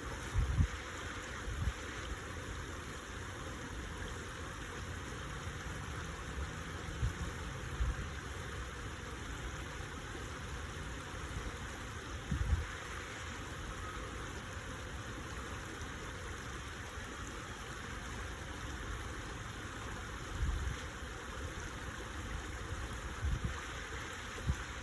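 Stream water running with a steady rush, broken a few times by short low thumps of wind buffeting the microphone.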